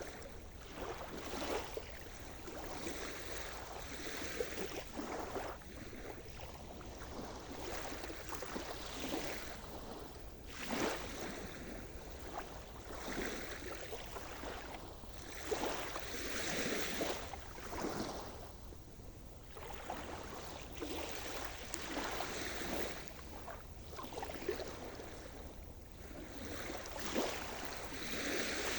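Sea surf: waves breaking and washing over the shore in uneven swells every few seconds.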